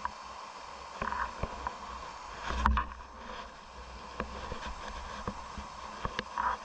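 Steady rush of stream water with scattered small knocks and clatters, and one louder knock with a low thump near the middle.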